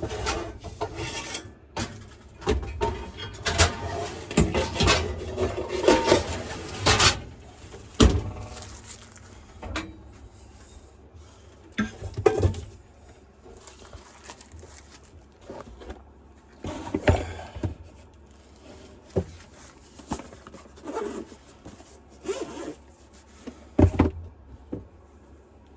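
Gear being handled and packed up: irregular rustling, rubbing and knocks. These are busy for the first several seconds, then thin out to scattered single knocks.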